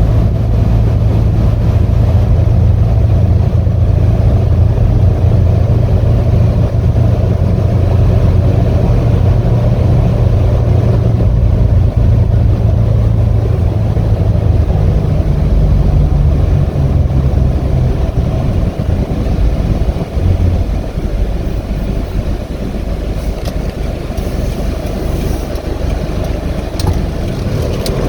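A 2018 Hino 155 box truck's diesel engine and road noise while it is being driven: a steady low drone. About halfway through, the engine note moves up in pitch. After about twenty seconds the sound eases slightly.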